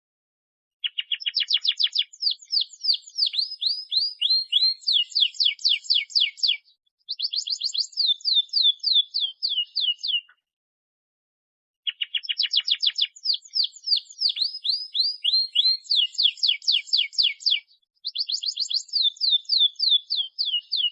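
Domestic canary singing a fast, trilled song: two long bouts of rapidly repeated sweeping notes, each nearly ten seconds, with a pause of about a second and a half between them.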